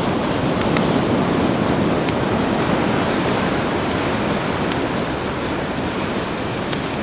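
Steady rush of sea surf washing ashore, with a few faint, scattered pops of a crackling campfire.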